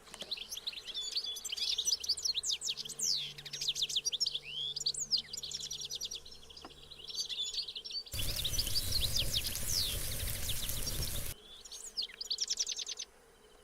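Many small birds chirping and twittering in quick, dense calls. About eight seconds in, a loud rushing noise covers everything for about three seconds and cuts off suddenly, and the chirping carries on after it.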